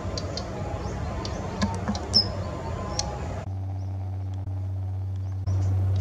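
A few short, high bird calls over outdoor background noise. About halfway through, the sound cuts off abruptly and a steady low hum with overtones takes over, growing louder near the end.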